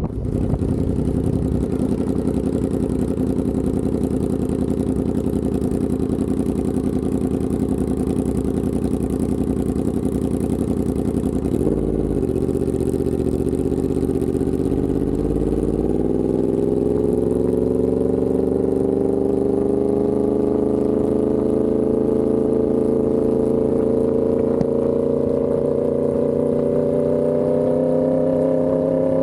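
Yamaha R1M's crossplane inline-four running through an SC Project exhaust while riding. Its pitch dips briefly about twelve seconds in, then the revs climb slowly and steadily.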